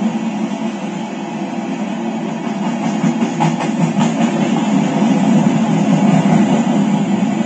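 Empty coal gondolas of a freight train rolling past on the rails, a steady rumble of steel wheels with a few faint clicks near the middle. The sound comes from a railcam's audio feed played back on a screen.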